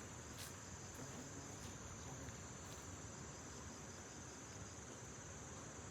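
Steady, high-pitched trilling of insects, faint and unbroken, with a few faint ticks.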